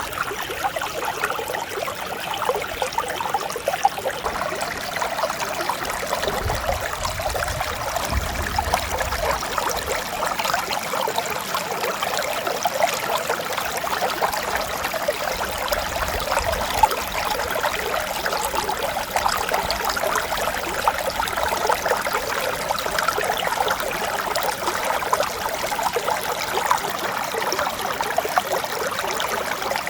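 Mountain stream running steadily, a continuous rush of flowing water.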